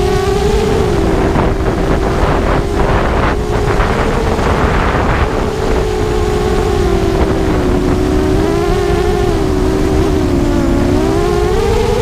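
Brushless motors of a ZMR250 racing quadcopter in flight: a steady whine whose pitch wavers gently with throttle. Wind rumbles on the microphone underneath.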